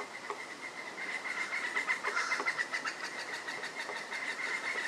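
Pileated woodpeckers calling: a fast run of repeated short notes that gets stronger about a second in and keeps going.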